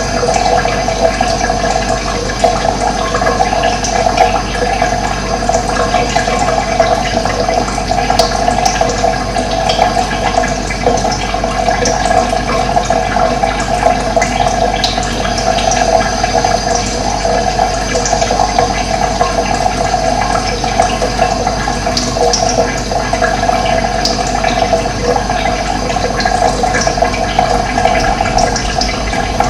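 Running water, a steady loud rush of flowing water that does not change.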